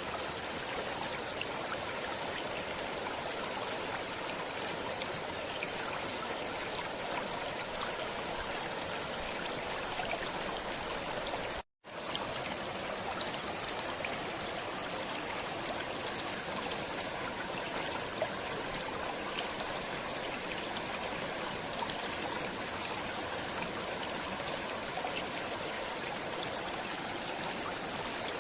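A stream of running water with steady, even rushing. The sound cuts out for a split second about halfway through, then resumes unchanged.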